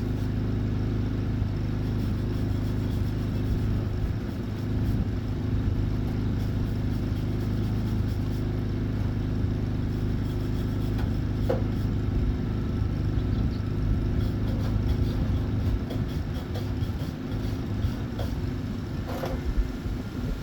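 Flux-core wire welder running: a steady low electrical buzz with faint scattered crackles.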